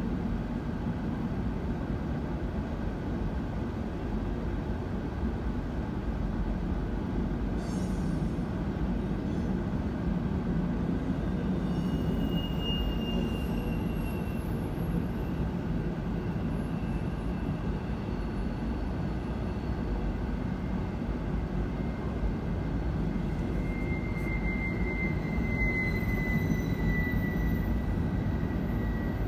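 Freight cars rolling past a grade crossing, heard from inside a car: a steady rumble and clatter of wheels on rail. A thin high squeal from the wheels comes in a little before halfway, and a longer, slightly falling one runs through the last few seconds.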